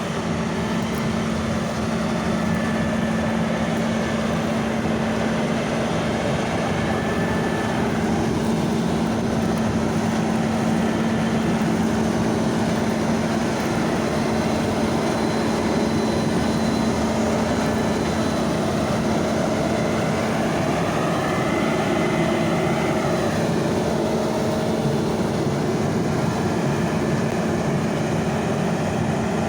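Large diesel farm machine running steadily, its engine holding a constant pitch over a dense mechanical drone. About two-thirds of the way through, a faint whine rises and falls.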